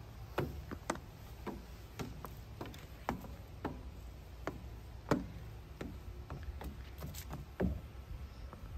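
Footsteps and light knocks on playground equipment, irregular sharp taps about one or two a second, over a low wind rumble on the microphone.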